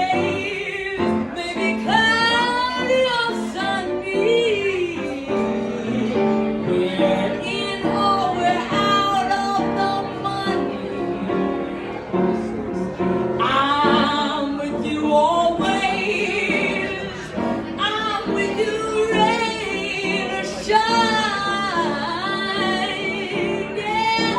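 A singer holding and bending long notes with wide vibrato over instrumental accompaniment.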